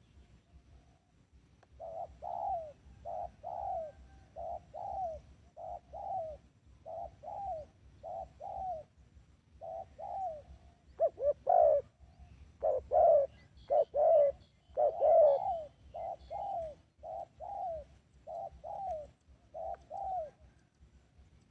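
Spotted dove cooing: a long series of short, falling coos, repeated over and over, loudest in the middle stretch.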